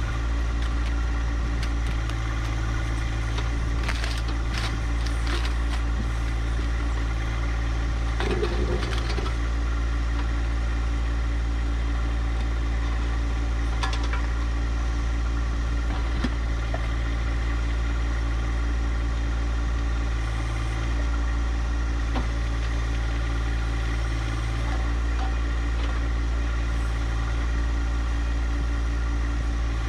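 John Deere 1025R compact tractor's three-cylinder diesel engine running steadily, with a few sharp knocks and cracks in the first half.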